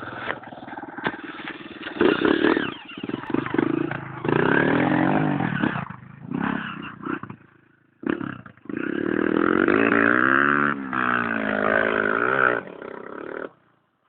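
Motorcycle engine running and being revved, its pitch rising and falling, with a short break about halfway before it runs again.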